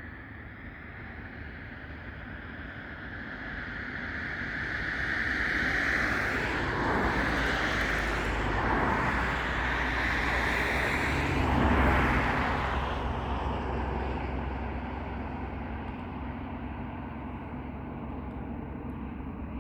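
Airliner's engines passing close by as it comes in to land: a steady whine with a low rumble that builds, peaks about twelve seconds in, then fades away.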